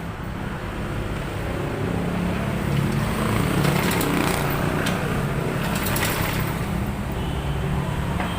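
An engine running steadily, growing a little louder in the middle, with a few light clicks.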